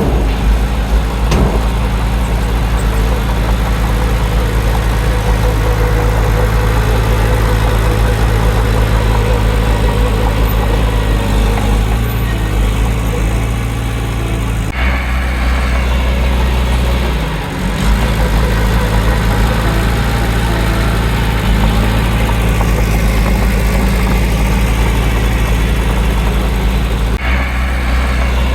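Heavy diesel engine of earthmoving machinery running steadily. Its tone shifts abruptly about halfway through and again near the end.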